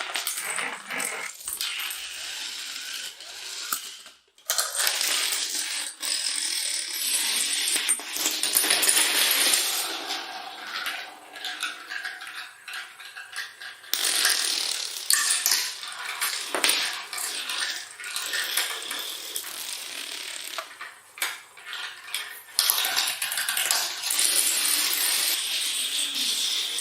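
Dominoes clattering as they topple and knock against each other, a dense run of small, hard clicks.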